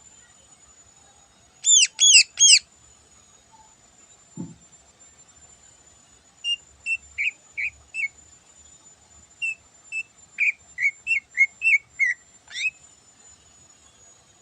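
Green leafbird (cucak ijo) singing: three loud, arching whistled notes about two seconds in, then two runs of short, quick chirps that end on a long down-slurred note.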